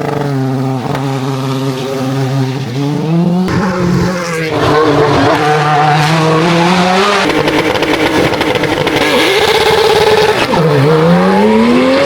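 Hillclimb race car engine accelerating hard, its pitch climbing and then dropping quickly at each gear change, and growing louder about halfway through. Near the end the revs fall sharply and then climb again.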